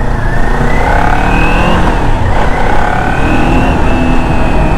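Kawasaki Ninja 400 parallel-twin engine pulling as the bike is ridden, its pitch rising, dipping about halfway through, then rising again and slowly easing off, with heavy wind noise on the microphone.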